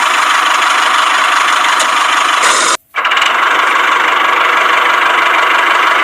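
A small motor running steadily with a rattle, briefly cut off for a moment about three seconds in.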